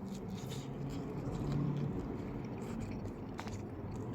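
A person chewing a mouthful of dry-rubbed chicken wing, quietly, with a few small clicks.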